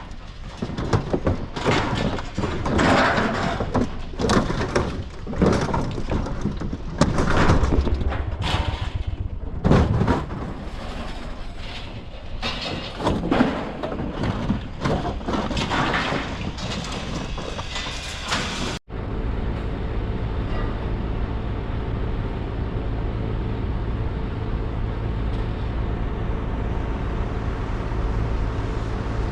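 Irregular banging and clattering, with many knocks close together, for about the first nineteen seconds. After an abrupt cut, a truck engine runs steadily with a low, even drone.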